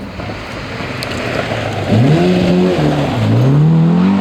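Rally car engine arriving hard: a steady rushing noise at first, then about two seconds in the engine note jumps up sharply and holds. It drops away briefly before climbing again under acceleration.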